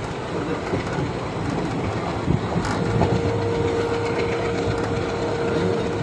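Express train running, heard from inside a passenger coach through an open window: a steady rumble and rattle of wheels on rails, with a few knocks. About three seconds in, a thin steady tone joins it and holds.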